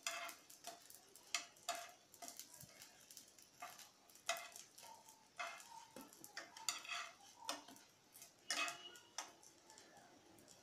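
Eggplant slices shallow-frying in a little oil in a nonstick pan: faint, scattered crackles and pops, about one or two a second.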